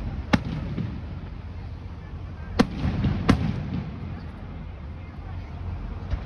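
Aerial fireworks bursting, three sharp bangs with a short echo after each: one shortly after the start, then two close together around two and a half and three seconds in, over a low rumble of further distant bursts.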